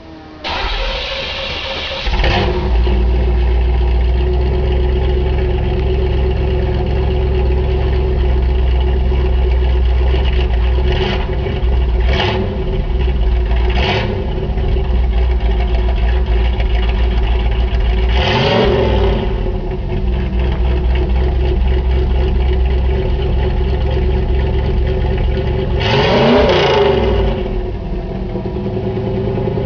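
1986 Camaro Z28's 305 V8 through Flowmaster mufflers, started after sitting for a week and a half. It cranks, catches about two seconds in, then idles loudly with three quick throttle blips and two longer revs that rise and fall, one near the middle and one near the end.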